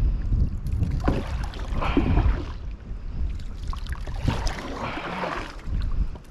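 Water swishing and splashing around a kayak in a few separate surges, with wind rumbling on the microphone throughout.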